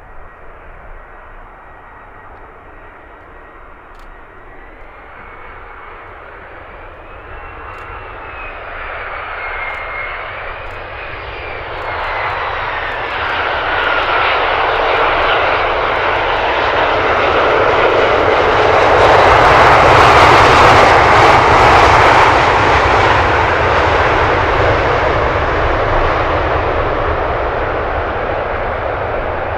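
Four-engine Airbus A340-300 jet, with CFM56 engines, passing the microphone: the engine noise builds up, peaks about twenty seconds in, then slowly fades. Early on a high whine wavers and then falls in pitch.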